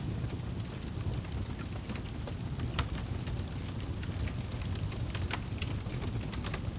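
Wood fire crackling: scattered sharp pops and snaps over a steady low rumble, the clearest pops about three seconds in and again around five to six seconds.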